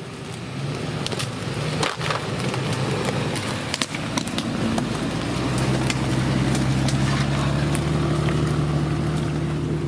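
Off-road SUV engine working under load, its note rising about halfway through and then holding steady. Sharp cracks and snaps are scattered over the first few seconds.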